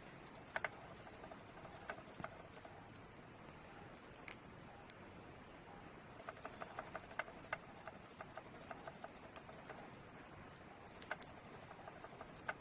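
Faint scattered small clicks and taps of a smartphone being handled as its SIM card tray is pushed back in, with a quick run of light ticks about halfway through.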